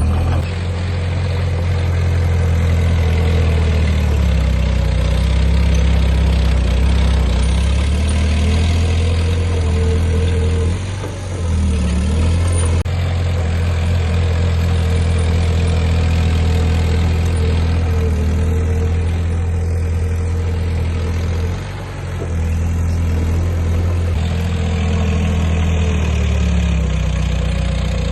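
Heavy diesel engine of an earthmoving machine running steadily, with a strong low hum; the engine note drops briefly twice, about a third and two-thirds of the way through.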